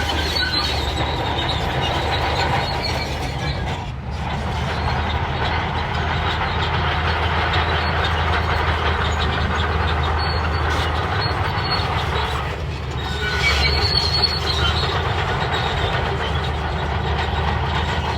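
Shantui crawler bulldozer running steadily with its diesel engine humming low, while its steel tracks squeal and clank, with a high squeal at the start and again about two-thirds of the way through.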